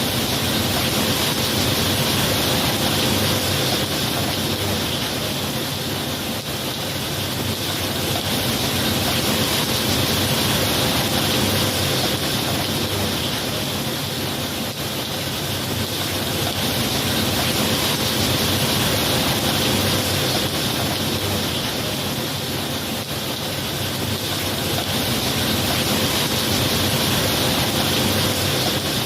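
Steady heavy rain, a dense hiss that slowly swells and eases every several seconds, with no thunder.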